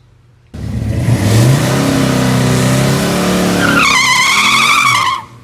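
Twin-turbo Chevrolet 5.3 L LS V8 in a 1993 Mustang accelerating hard on a drag pass: the engine comes in suddenly, climbs in pitch and then holds. About three and a half seconds in, a high wavering whine joins it, and the sound cuts off suddenly.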